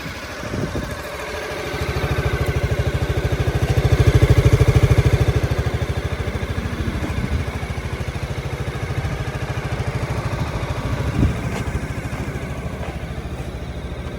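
Honda Forza MF10 scooter's 250 cc single-cylinder engine starting about two seconds in, running louder for a few seconds, then settling into a steady idle.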